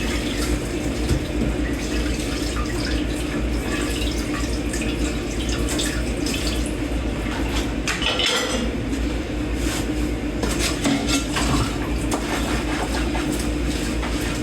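Hand-washing dishes at a kitchen sink: a tap running steadily, with water splashing and dishes and cutlery clinking now and then.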